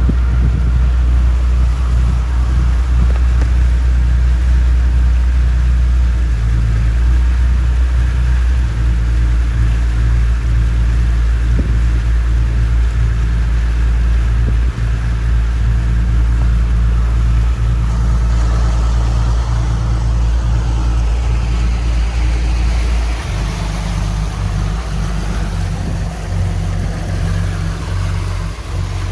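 The cruise boat's engine running under way, a steady low drone whose note shifts about three-quarters of the way in. A hiss of wind and water grows over it from a little past the middle.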